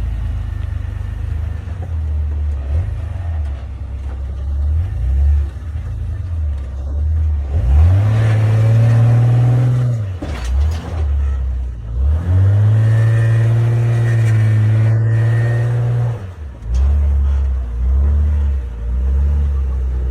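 Off-road vehicle engine running low, then revved hard twice for a few seconds each: the pitch climbs, holds high and falls back, the second rev the longer.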